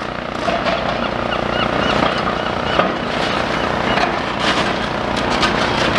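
Demolition excavator's diesel engine running steadily as it works at a concrete pillar, with scattered knocks and crunches of concrete and a few short high chirps about two seconds in.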